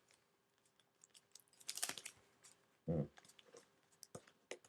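Origami paper being handled and creased by hand: a few soft crinkles and taps, with a brief crisp rustle about two seconds in. A short low murmur of voice comes about three seconds in.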